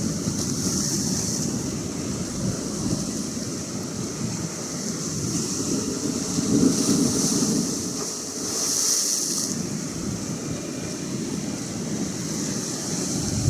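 Atlantic Ocean surf with waves breaking and washing in, with a hiss that swells and fades several times. Wind buffets the microphone with a low rumble.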